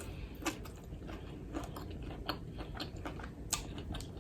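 Close-miked chewing and biting of crunchy fried food, with irregular sharp crunches and clicks every half second or so.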